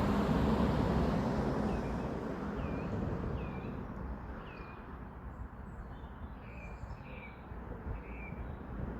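Road traffic rumble, loud at first and fading as a vehicle moves away, while a small bird calls a run of short, quick chirps over it.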